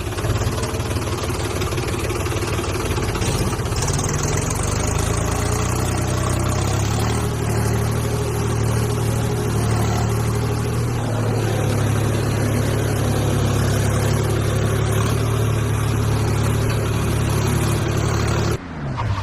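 Mini tractor's small engine running steadily with a low, even hum, then winding down and stopping near the end with a falling pitch.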